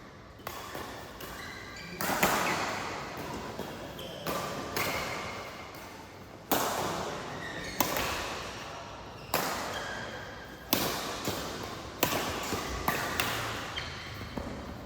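Badminton rackets striking a shuttlecock in a rally: a run of sharp hits starting about two seconds in, coming every second or so and closer together near the end, each with a long echo after it.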